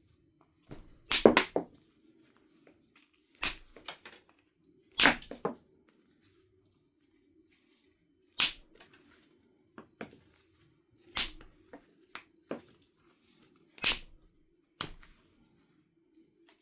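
Knife River flint biface being knapped: about seven sharp, crisp strikes on the stone at irregular intervals, with a few lighter clicks between them, over a faint steady hum.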